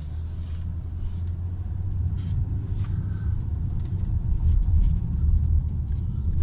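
Steady low rumble of road and engine noise inside a moving car, growing somewhat louder about halfway through.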